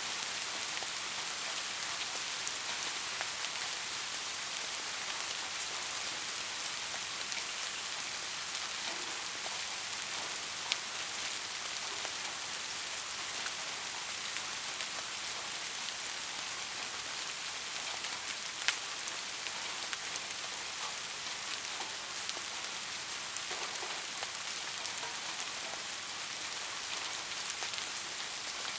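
Steady rain: an even hiss with scattered sharper drips. Two single drops stand out louder, about a third and about two-thirds of the way through.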